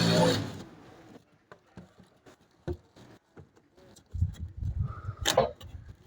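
A power tool's motor running, which stops about half a second in. Then come scattered light clicks and knocks, and from about four seconds in a series of dull low thumps with one sharp knock, as the hole in the wall is worked on by hand.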